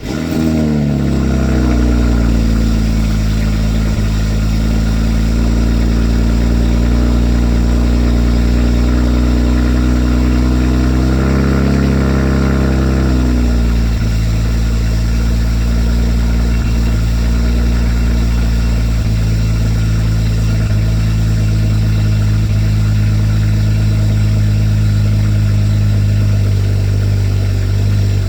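BMW N54 twin-turbo 3.0-litre inline-six with stock exhaust and aftermarket downpipes, starting from cold. It fires suddenly, and the revs flare and then settle within about two seconds into a steady, raised cold idle. The idle rises briefly about eleven seconds in and drops back a couple of seconds later.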